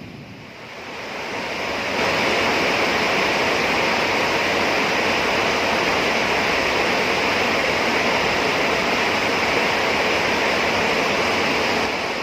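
Heavy rain pouring down in a steady hiss that swells in over the first two seconds.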